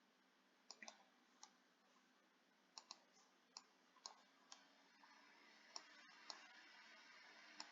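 Near silence with about a dozen faint, sharp clicks at irregular intervals over a light hiss.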